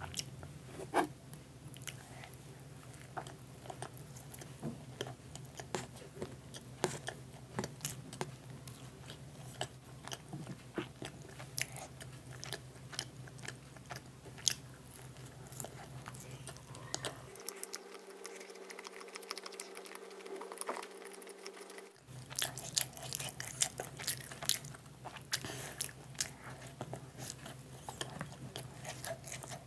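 Close-miked chewing and biting of soft steamed momos, with many sharp wet mouth clicks throughout.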